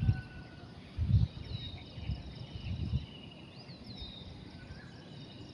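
Several songbirds chirping and singing, short high calls and warbles overlapping throughout. Three louder low rumbles, wind or handling noise on the microphone, come near the start, about a second in and around the third second.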